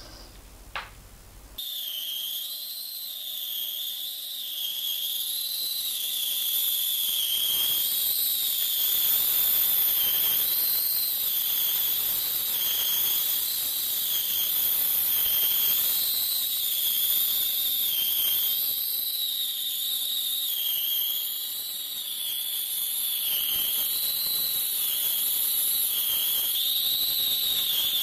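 A machine tool running with a steady high whine that wavers up and down in pitch about every two seconds, over a hiss of cutting or grinding noise; a single click comes just before it starts.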